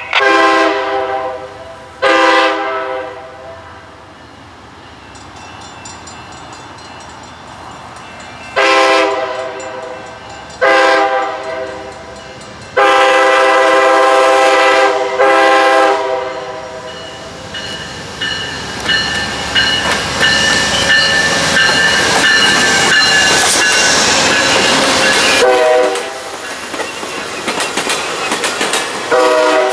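Amtrak passenger train's GE Genesis diesel locomotive sounding its air horn for a crossing: two long blasts, a pause, then a longer series ending in a short blast. The train then passes close by with wheels clicking over rail joints and a thin steady squeal, and a few brief horn notes near the end.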